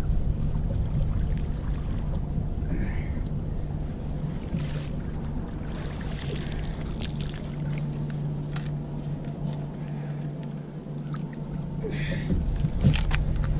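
Boat motor running steadily with a low hum, with scattered short clicks and knocks from handling on the boat.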